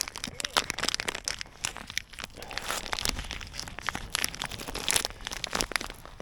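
Close crinkling and crunching: irregular rustling with many small sharp clicks, like something being handled or crushed.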